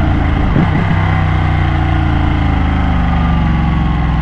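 Ducati motorcycle engine running with its pitch falling steadily as the bike slows down.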